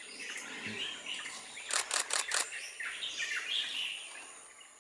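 Forest birds chirping and whistling, with a camera shutter firing four times in quick succession about two seconds in.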